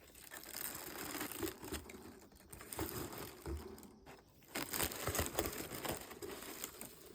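Packaging crinkling and tearing as a present is unwrapped by hand, in rustling spells with a short lull about four seconds in.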